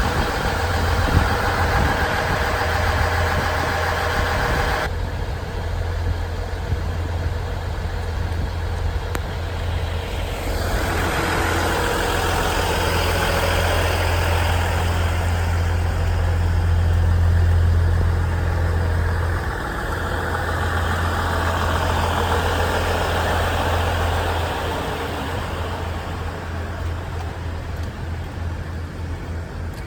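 KiHa 110 series diesel railcar's engine running with a steady low hum. Its sound changes abruptly about five and ten seconds in, then eases off over the last few seconds.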